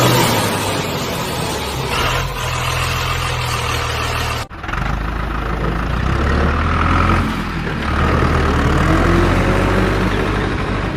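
Tractor engine running steadily at a low pitch, broken by an abrupt cut about four and a half seconds in, after which it carries on.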